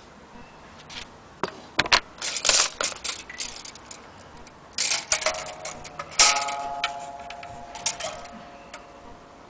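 Old mandolin being handled: clicks and rubbing, then its strings sound briefly about five seconds in and are struck again at about six seconds, ringing in several tones that fade out.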